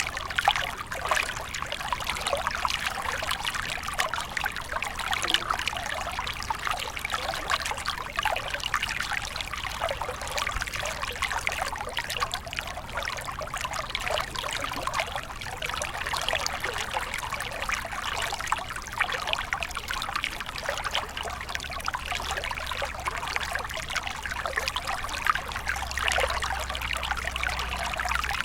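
Stream water flowing steadily, trickling and splashing without a break.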